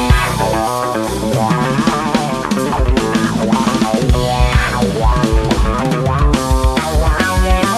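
Funk-style band music: guitar, bass guitar and drum kit playing an instrumental passage with a steady beat.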